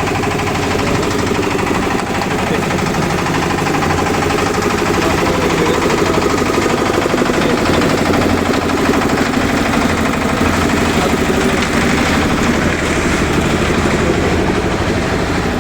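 An engine or motor-driven machine running steadily, with a fast even pulse.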